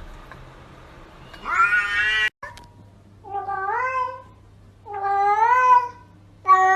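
Domestic cat meowing in long, drawn-out calls: one meow, a sudden break, then three more long meows that rise and bend in pitch, the last still going at the end, over a steady low hum.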